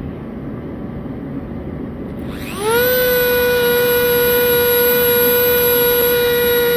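Dremel rotary tool with a small burr spinning up about two and a half seconds in, then running with a steady high whine as it cuts fine fur texture into wood.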